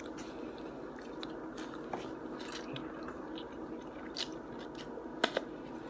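A person chewing a mouthful of chow mein noodles, with small wet mouth clicks throughout and two sharper clicks near the end, over a steady background hum.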